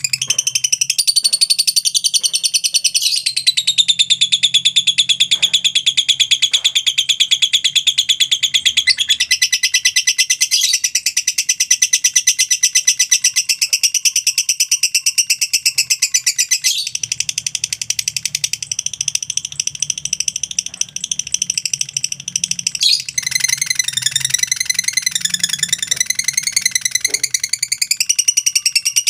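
Lovebird giving a long unbroken ngekek: a rapid, high-pitched chattering trill held without a pause, its pitch shifting a little every few seconds.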